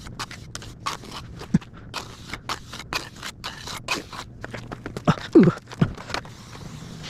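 Steel trowel scraping and working wet cement mortar in many short, irregular strokes. About five seconds in come a couple of brief falling squeals, the loudest sounds here.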